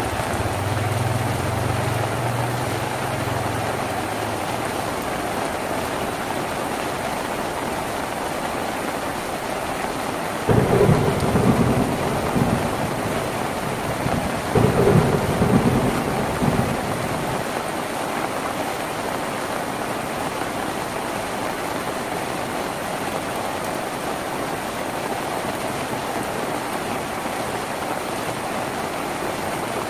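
Steady rain drumming on a tin roof, broken by two sudden loud low rumbles of thunder about ten and fourteen seconds in that roll on for a few seconds before dying away.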